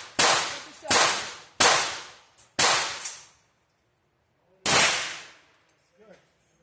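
Five gunshots from a shoulder-fired rifle: four about three-quarters of a second apart, then a fifth after a pause of about two seconds, each with a short echoing tail.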